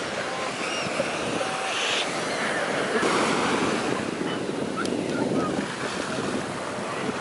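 Ocean surf breaking and washing ashore, a steady rush that swells a few seconds in, with wind buffeting the microphone.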